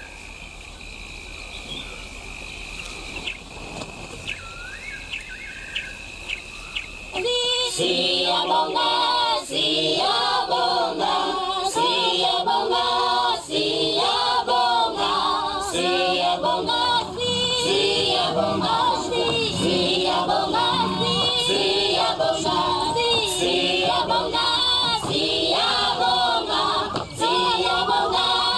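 Quiet bush ambience with a steady high insect drone and a few bird chirps, then about seven seconds in a choir starts singing unaccompanied and carries on as soundtrack music.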